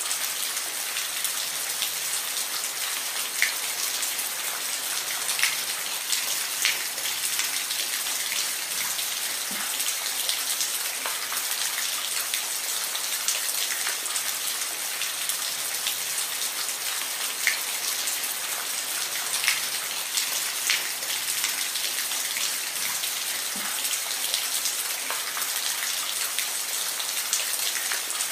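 Steady rain, an even hiss with many separate drops ticking and plinking on a surface.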